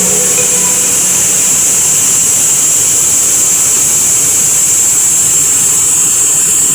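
Jet airliner engine running steadily on the ramp, a constant rushing noise with a high whine.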